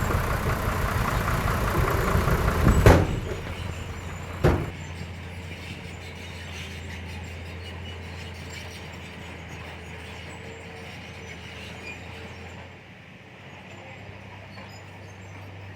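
Heavy diesel engine of earthmoving machinery running loudly. About three seconds in there is a sharp bang, and a second one follows about a second and a half later. After that the engine settles to a quieter, steady low hum.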